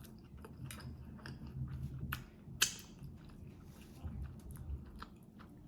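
Close-up chewing of a soft corn-tortilla taco with ground beef, with wet mouth clicks and smacks; one sharper click about two and a half seconds in.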